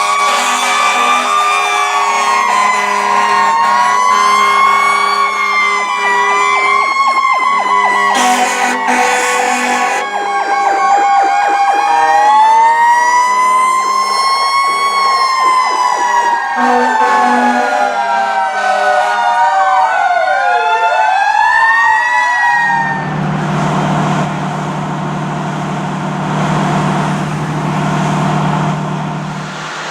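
Several fire truck sirens wailing together, their pitches rising and falling and overlapping. About twenty seconds in they wind down in falling sweeps, and a steady low drone remains.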